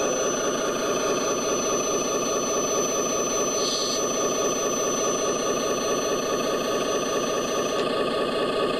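Hydraulic pump of a radio-controlled dump truck running steadily while the dump bed is worked, with a thin high whine over it that stops near the end.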